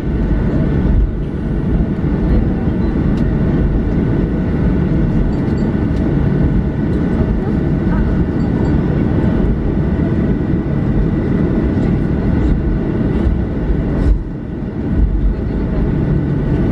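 Cabin noise inside a Boeing 737-800 after landing: a steady low rumble with several steady tones from the CFM56 engines running at idle, as the airliner rolls on the ground. The noise drops briefly about 14 s in.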